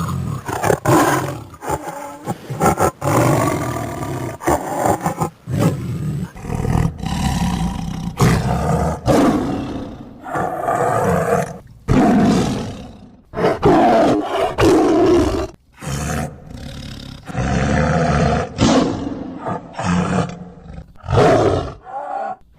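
Lioness roaring in a long run of loud, repeated calls, each a second or two long, with short breaks that often cut off abruptly.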